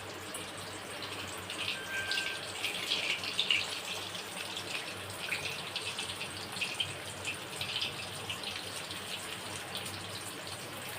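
Battered chicken pakora pieces frying in hot oil in a kadai, a steady sizzle with scattered small crackles and pops, on a lowered flame during the first, partial fry.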